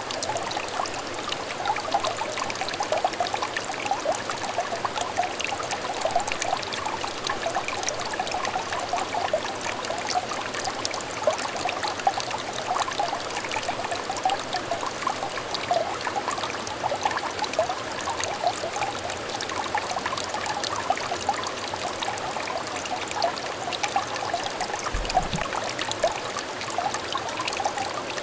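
Small stream of clear water trickling and babbling steadily, with many little bubbling plinks. A brief low thump comes about 25 seconds in.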